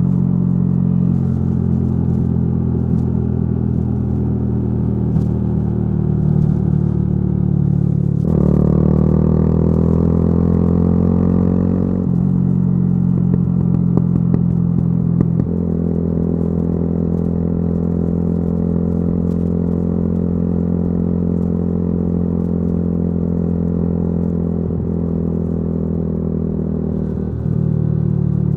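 Yamaha YZF-R125's 125 cc single-cylinder four-stroke engine running through a modified exhaust while riding. The note holds steady for stretches and changes pitch abruptly a handful of times as the throttle or gear changes.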